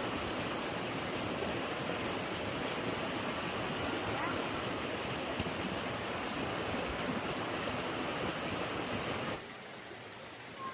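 A steady rushing noise with no tone or rhythm, like running water or wind, that drops away abruptly near the end.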